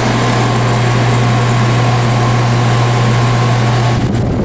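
Vintage room air conditioner running with its fan on high: a steady deep hum under a loud rush of air. Near the end the hum and the rush drop away suddenly.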